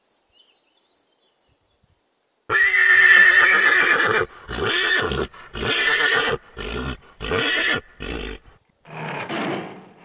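Horse neighing: one long whinny, then five shorter calls in quick succession.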